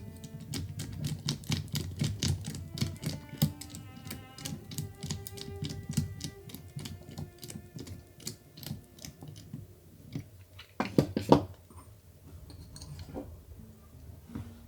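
Rapid, irregular small clicks and taps, like plastic and metal model-kit parts being handled and fitted, over soft background music. The clicking thins out past the middle, with two louder clusters of knocks about 11 seconds in.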